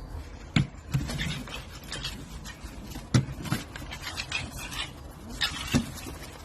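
A pet animal making short sounds, with a few sharp knocks or taps.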